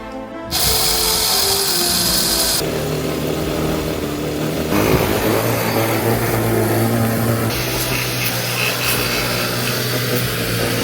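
Background music mixed with loud mechanical noise that starts suddenly about half a second in and changes character abruptly every couple of seconds, with a steady low hum running under it from about halfway.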